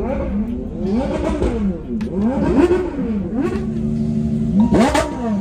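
A sports-car engine being revved repeatedly, its pitch climbing and dropping about four times, each rev lasting around a second, with the sharpest, loudest rev near the end.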